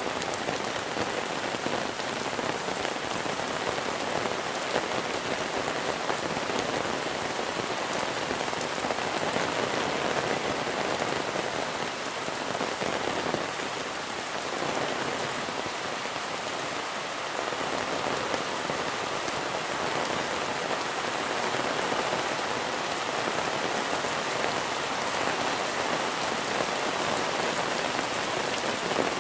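Steady heavy monsoon rain, a dense even hiss of falling rain with many small drop ticks.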